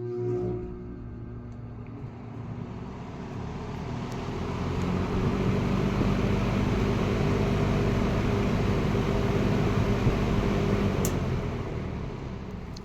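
Late-1960s Eskimo three-speed all-metal box fan starting up on high speed: a roaring startup that builds over the first few seconds into a loud steady rush of air with motor hum. A click comes about eleven seconds in, and the fan then starts to wind down.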